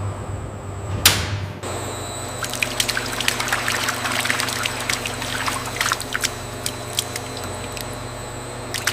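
Liquid pouring and dripping over a steady low machine hum, with a brief whoosh about a second in.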